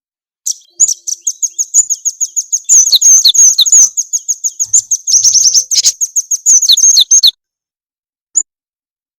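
Recorded small-songbird calls played as a bird lure: a rapid chattering run of high, down-slurred chirps, about eight a second, lasting some seven seconds. A single chirp follows near the end.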